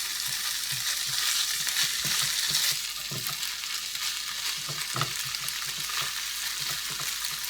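Rice vermicelli and chopped vegetables sizzling in chermoula in a hot pan, stirred and turned with a spoon that knocks softly and irregularly against the pan, while the liquid cooks off.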